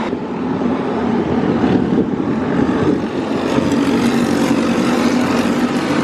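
Several go-karts with Briggs & Stratton engines running around the track, a steady loud engine drone with no single pass standing out.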